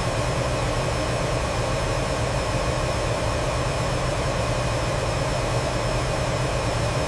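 Steady jet engine noise: an even hiss over a low hum, with faint high steady tones running through it.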